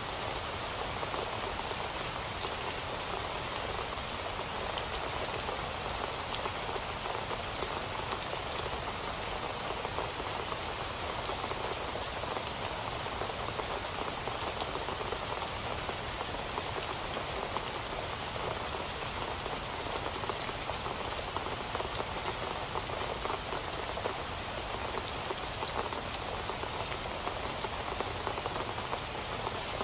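Steady rain falling on a surface, a continuous even patter of many drops.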